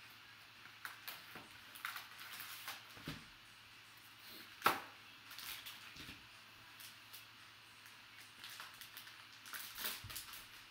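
Faint rustling and scattered light clicks of a trading-card box and its packaging being opened and handled, with one sharper click a little under five seconds in.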